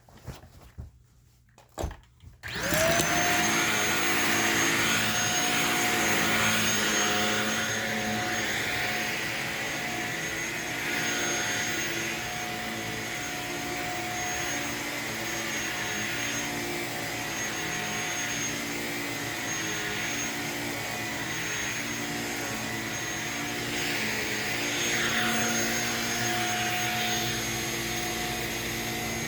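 Shark vacuum cleaner with a self-cleaning brushroll, switched on about two and a half seconds in after a few small clicks. Its motor whine rises quickly to speed, then runs steadily, with the level wavering a little as it is pushed about.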